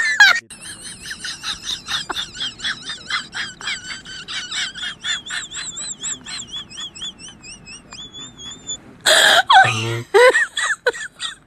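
High-pitched chirping from a small bird, quick warbling notes a few times a second that end in a couple of longer wavering notes, followed by a loud outburst near the end.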